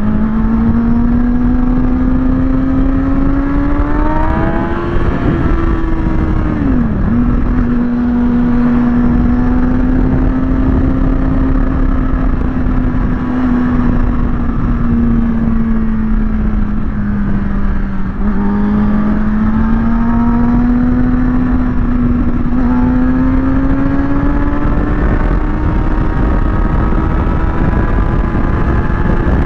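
Kawasaki ZX-6R inline-four engine running at a steady cruise under a rush of wind noise. Its pitch climbs a little around four to five seconds in, falls sharply twice soon after, sags near the middle and then climbs slowly toward the end as the rider shifts and changes throttle.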